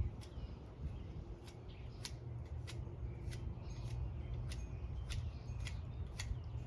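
Multi-tool knife working a piece of bamboo: a steady series of short, sharp cutting clicks, a little under two a second.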